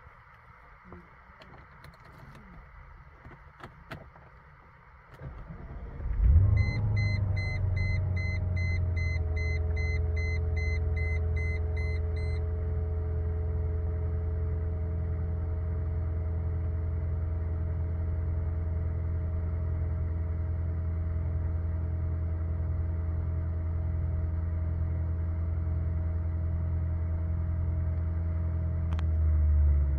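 Mercedes-Benz SL500's V8 cold-started: a few faint clicks, then about five seconds in the starter cranks briefly, the engine catches with a short flare and settles into a steady idle. A dashboard chime beeps about two to three times a second for several seconds just after it starts.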